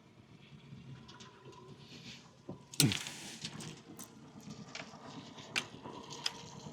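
Scattered clicks and knocks of fishing gear being handled in a small boat, with one louder knock and a short falling squeak about three seconds in.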